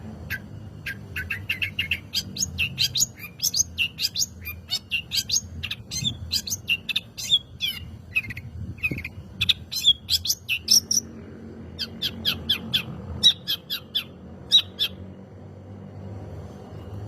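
Long-tailed shrike (cendet) singing: a fast, busy run of sharp chirps and chattering notes, several a second, breaking off briefly about two-thirds of the way through, then resuming in a shorter run.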